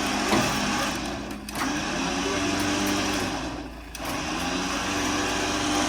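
A vehicle engine running at high, steady revs, dropping in level briefly twice, about a second and a half in and again near four seconds in, while trying to get a stuck vehicle out.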